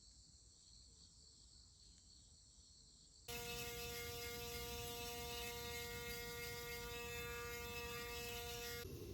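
About three seconds of near silence, then a steady electric hum at one fixed pitch that starts suddenly and cuts off shortly before the end.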